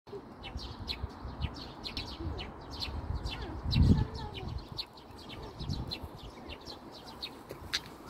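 Small birds chirping, a quick run of short, sharp, high notes repeated a few times a second throughout. About halfway through there is a brief low thump, the loudest sound.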